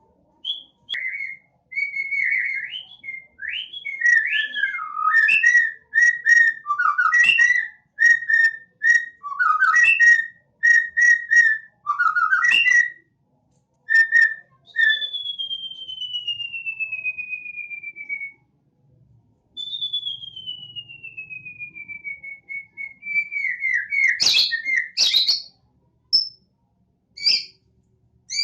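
Caged songbird singing: a quick run of clear whistled notes and chirps, then two long whistles that each slide slowly downward, followed by sharp chirps near the end.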